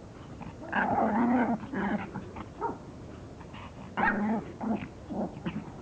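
Dogs play-fighting, growling with short barks and yips in several outbursts; the longest comes about a second in and another about four seconds in.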